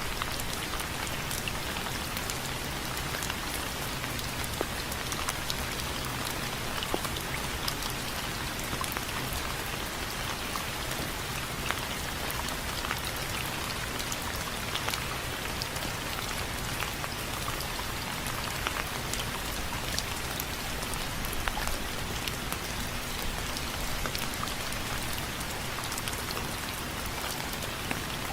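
Steady rain falling, with many individual drops ticking sharply on a hard surface, taken for a window frame.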